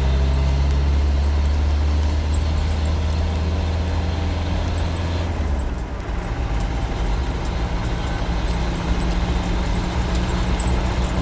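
Land Rover 90's 300Tdi four-cylinder turbo-diesel engine pulling the vehicle away, heard from inside the soft-top cab with its sides up. About six seconds in the sound drops briefly, then the engine runs on at a higher note.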